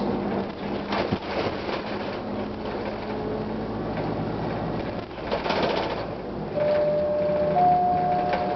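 Interior running sound of a 1999 Gillig Phantom transit bus with its Detroit Diesel Series 50 diesel: a steady mechanical drone, a sharp click about a second in, and a short hiss a little past the middle. Near the end come two steady tones, the second higher.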